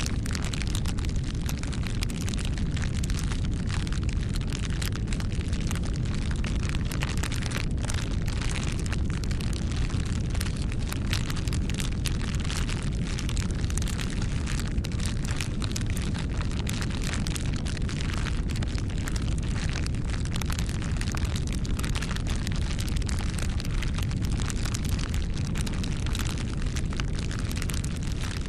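Wood bonfire burning, with a steady low rumble and frequent sharp crackles and pops throughout.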